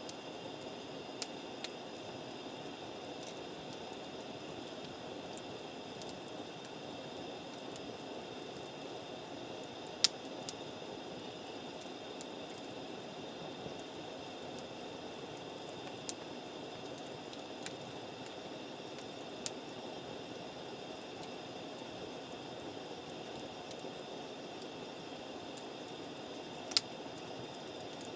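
Wood campfire burning, with a steady low hiss and sharp pops and crackles every few seconds.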